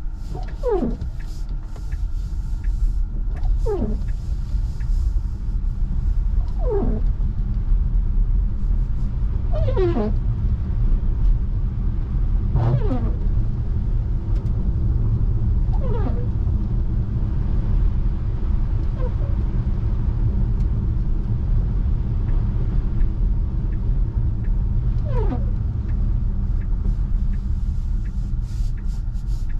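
Steady low tyre and road rumble inside a Tesla Model 3 driving on a snowy road. Over it, a short squeak falling in pitch comes about every three seconds, typical of windshield wiper blades dragging across the glass while it snows.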